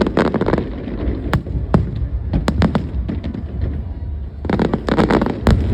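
Aerial fireworks going off: a quick cluster of sharp bangs and crackles at the start, scattered single reports in the middle, and another dense run of crackling bangs near the end, over a steady low rumble.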